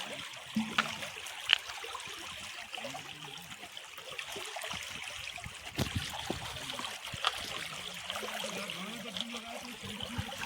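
Stream water trickling and flowing steadily over rocks, with a few sharp knocks, the loudest about a second and a half in and again after seven seconds.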